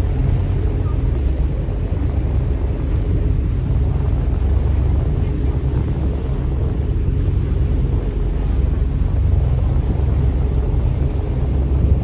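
River tourist boat's engine running at a steady cruise, a constant low drone with wind rushing over the microphone.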